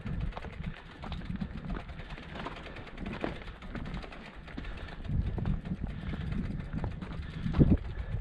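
Footsteps clicking irregularly on a stony mountain path, over a low rumble of wind on the microphone.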